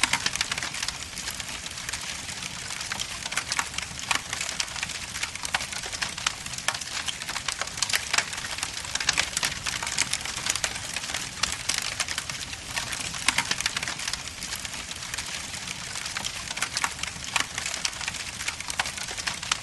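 Wood logs burning in a fireplace, crackling and popping continuously over a steady hiss.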